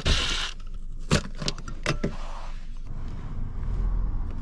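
A few light metallic clicks and clinks of tools and parts being handled, followed by a low rumble near the end.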